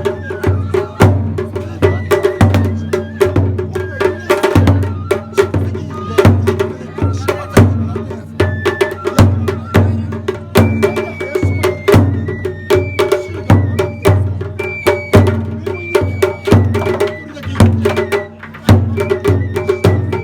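Japanese festival hayashi music: a taiko drum struck in a steady beat, with sharp clacking strikes between the beats and a high melody played over them.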